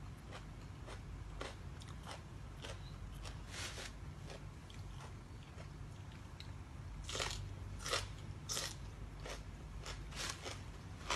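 A person chewing crunchy food close to the microphone: a string of short, crisp crunching bites at an uneven pace, the loudest three coming close together about seven to eight and a half seconds in.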